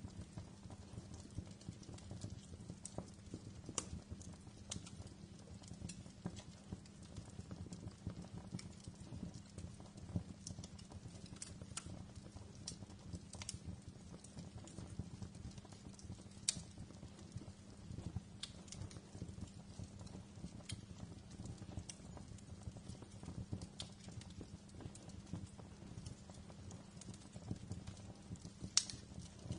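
Wood fire crackling in a fireplace: frequent small sharp pops and snaps over a low steady rumble of flame, with one louder pop near the end.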